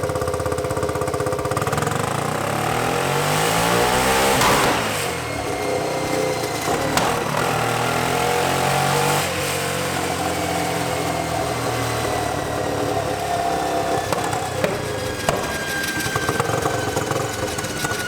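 Turbocharged Yamaha Raptor 660 single-cylinder engine making a full-throttle dyno pull: revs climb to a loud peak about four to five seconds in, then drop back. The engine keeps running after, with a thin high whine slowly falling in pitch.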